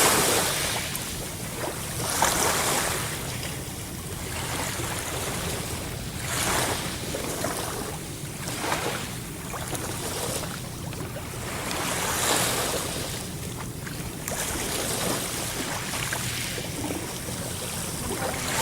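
Sea waves breaking and washing in, swelling louder every two to four seconds over a steady rush of surf.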